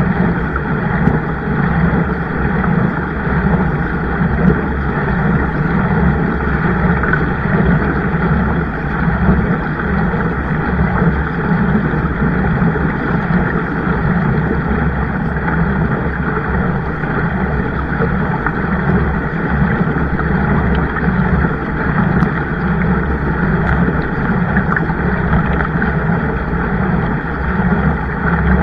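Steady rushing noise of wind buffeting the microphone over water, with no distinct events.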